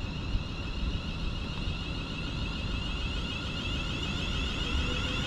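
Class 350 Desiro electric multiple unit pulling away from the platform, its traction motors whining as it gathers speed, growing slowly louder.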